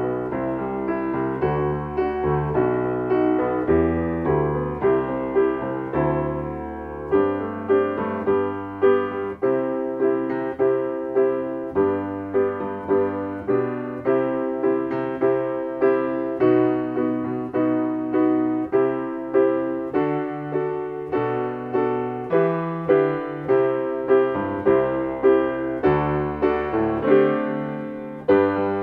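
Solo piano playing a choral accompaniment at a moderate walking tempo, with steady repeated chords over a bass line and no voices.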